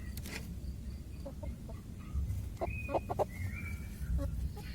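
Chickens clucking, with a couple of higher squawks in the middle, over a steady low rumble.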